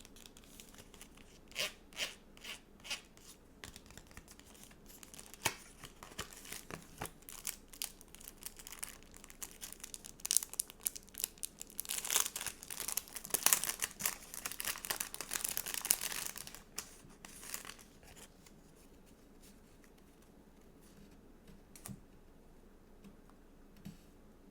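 Paper stickers being peeled off their backing sheets and handled, a run of crackly peeling and crinkling rustles with sharp little ticks. The rustling is densest in the middle and dies down to a few light taps near the end.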